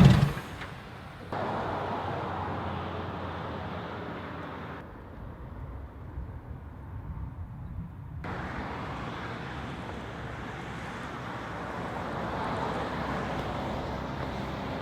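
Outdoor vehicle and traffic noise in several edited segments, changing abruptly about one, five and eight seconds in.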